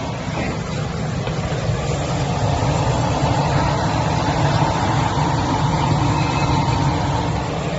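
Steady low mechanical rumble of machinery running, a little louder in the middle.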